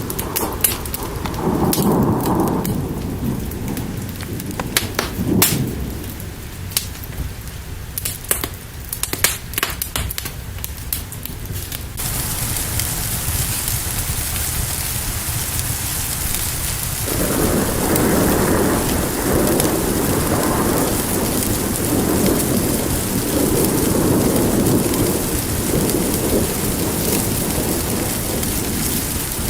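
Rain with rolling thunder. Sharp pops and crackles sound over low rumbles for about the first twelve seconds. Then the sound changes abruptly to a steady, dense rain hiss, with thunder rumbling, swelling and fading from about seventeen seconds in.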